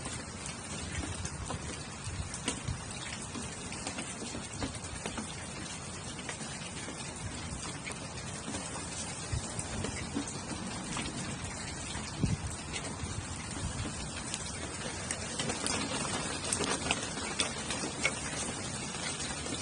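Steady rain falling, an even patter dotted with many small sharp ticks, with one louder tick about twelve seconds in.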